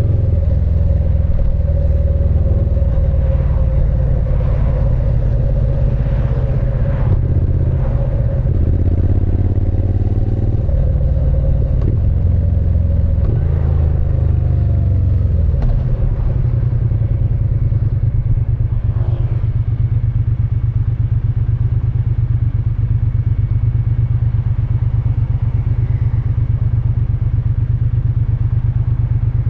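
Triumph Speed Twin 900's parallel-twin engine and exhaust, heard from the rider's seat. The revs rise and fall through gear changes for about the first half, then settle into a steady idle.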